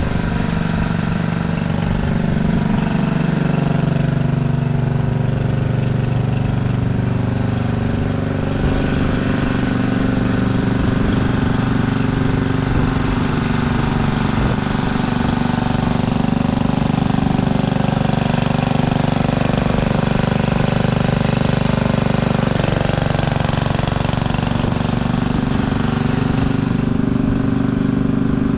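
Simplicity Landlord garden tractor engine running steadily, its pitch wavering slightly as the load changes.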